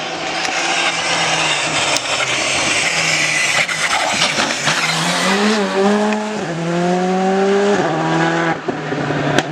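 Rally car at full throttle: a loud rough roar for the first few seconds, then the engine note climbs, drops at a gear change about six seconds in, climbs again and drops once more near eight seconds.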